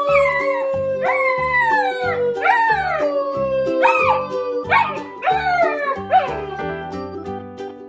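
Dog howling: a long drawn-out howl slowly sinking in pitch, with a string of shorter cries that swoop up and fall away, over background music with a steady beat.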